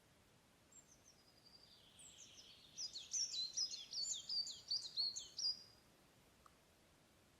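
A songbird singing in the forest: a few faint high notes build into a louder run of quick, repeated falling whistles, which stops about six seconds in.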